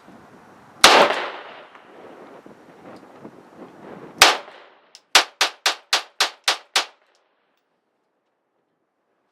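Two gunshots, about three seconds apart and each with a trailing echo, over wind noise on the microphone. A quick run of seven sharp cracks follows, about four a second, then the sound cuts off suddenly.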